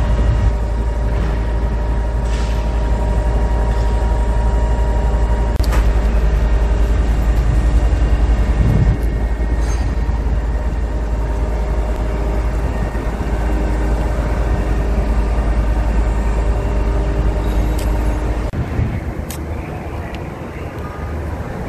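Heavy machinery's engine running steadily. A deep rumble drops away suddenly near the end, and a few sharp knocks sound over it.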